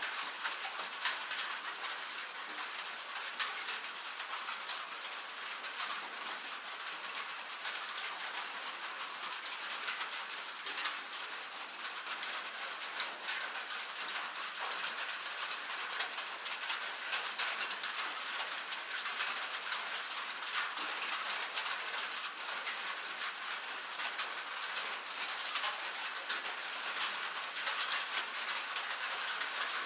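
Steady rain on a metal roof: a dense, even patter of countless small drop ticks, bright and hissy.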